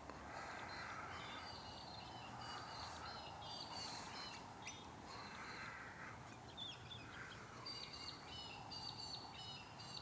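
Birds calling: strings of quick, high, repeated chirps, with softer, lower cawing calls between them. A couple of sharp clicks sound in the middle.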